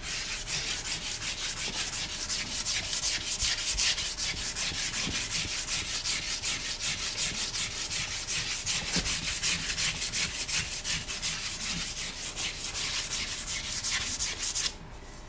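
Hand sanding at the toe of a freshly shod hoof, rapid, even back-and-forth strokes that blend the hoof wall flush with the shoe. The strokes stop abruptly near the end.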